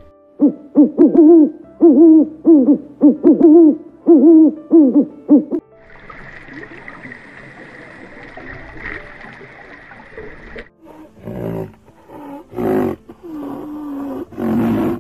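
Hippopotamus honking calls: a run of about ten rhythmic, pitched honks, each rising and falling, at roughly two a second. Then a steady hiss with a faint high whine for about five seconds, and in the last few seconds several short, loud animal calls or snorts.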